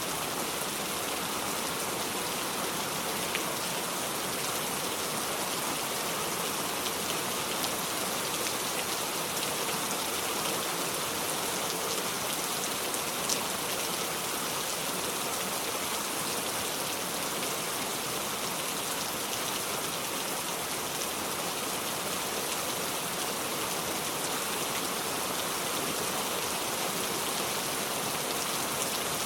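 Steady heavy rain with no thunder: a constant even hiss of rainfall with scattered drop ticks, one sharper tick about thirteen seconds in.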